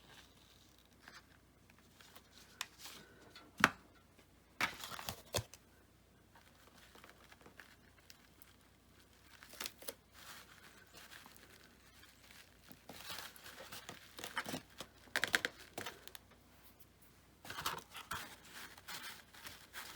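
Intermittent rustling, crinkling and tearing of craft materials being handled, in irregular bursts, with a sharp click about three and a half seconds in.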